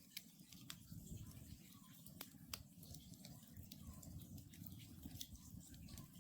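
Wood campfire burning: scattered sharp crackles and pops from the logs over a low, steady rumble of the flames, with two louder pops in the middle.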